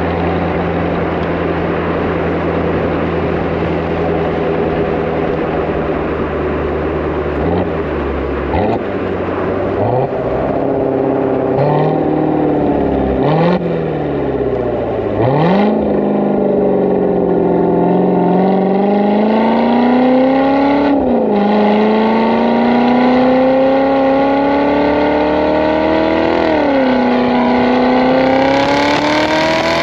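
Supercharged 6.2-litre V8 of a 2016 Callaway Corvette Z06 through an Akrapovic cat-back exhaust: it idles steadily, is blipped in about six short revs, then pulls away, the pitch climbing through the gears with two upshifts and rising again near the end.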